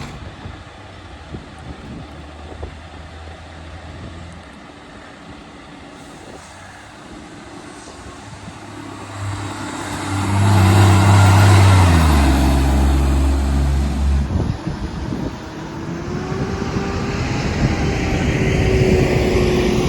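Garbage truck's diesel engine, which has an exhaust leak: running low and quiet at first, then growing loud a little past halfway as it passes close, its low note stepping down before it fades. A higher whine rises near the end.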